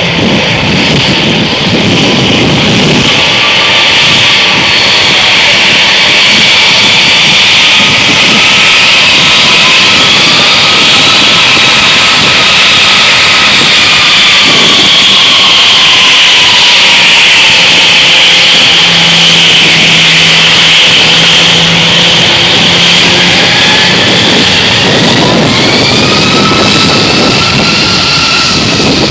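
Airbus A340's four jet engines running very loud: a dense, steady roar with high whining tones that waver and slide up and down in pitch.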